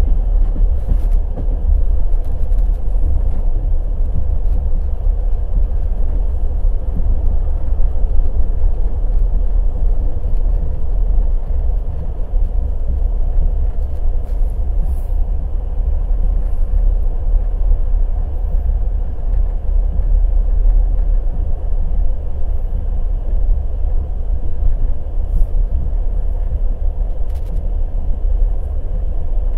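Passenger train running at speed: a steady, loud low rumble with the clatter of its wheels on the rails.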